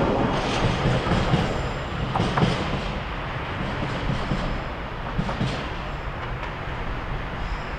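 Freight train of oil tank wagons rolling away along the track, the rumble slowly fading with scattered wheel clicks over the rail joints.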